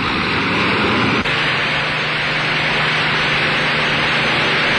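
Avro Lancaster bomber's engines droning, a loud steady noisy drone on a hissy old newsreel soundtrack, with an abrupt splice about a second in after which a low steady hum joins it.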